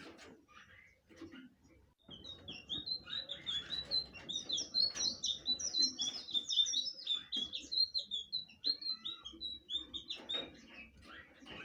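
Blue flycatcher (sikatan biru) singing: a few scattered high chirps, then from about two seconds in a fast, continuous warble of short high notes that runs until near the end.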